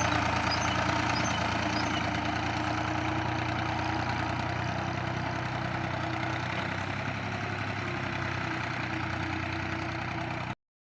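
Tractor engine running steadily at a low, even speed. The sound cuts off abruptly near the end.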